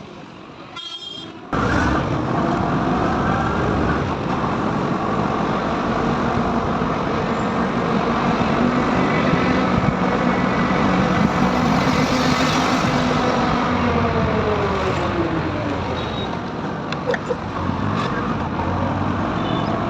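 Motorcycle running at highway speed with road and wind noise, coming in suddenly about a second and a half in; the engine note dips and rises now and then.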